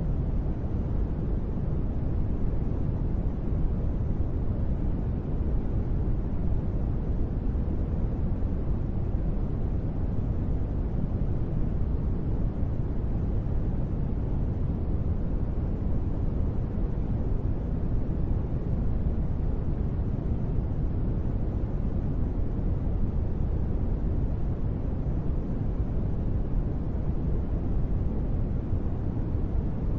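Steady, deep noise sold as gentle-rain white noise for sleep, even throughout, with most of its weight in the low end and no separate drops or thunder.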